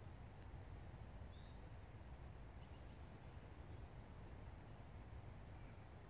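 Faint, short, high bird chirps, a few scattered calls, over a low steady rumble of forest ambience.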